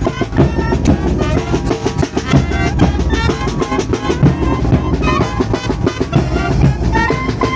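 Mexican banda, a brass band, playing live: drums keep the beat under held horn notes.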